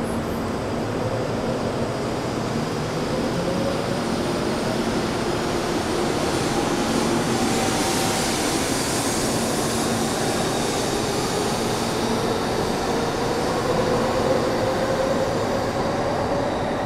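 N700-series Shinkansen train pulling out of the platform and gathering speed, its cars rolling steadily past close by, with a motor whine that slowly rises in pitch as it accelerates.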